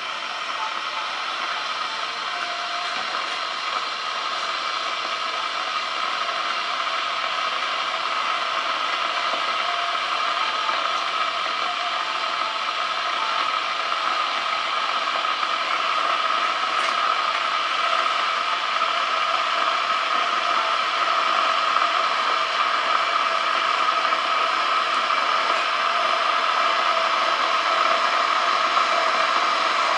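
Kettle heating water: a steady hiss and rumble from the water that grows gradually louder as it nears the boil.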